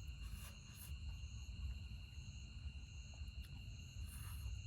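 Night insects such as crickets trilling steadily on two high, unbroken tones, with a higher chirp pulsing about once a second, over a low rumble.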